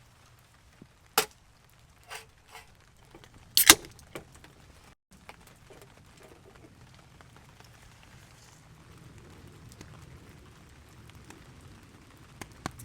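A few sharp knocks, two of them loud (about a second in and near four seconds), followed by a faint steady noise.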